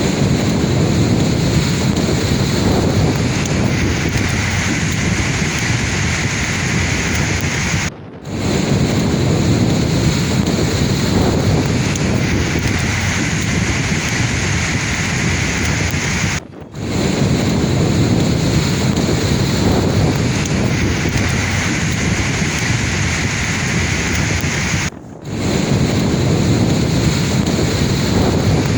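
Sea waves washing in a steady, dense rush. The sound breaks off for a moment three times at even intervals, about every eight and a half seconds.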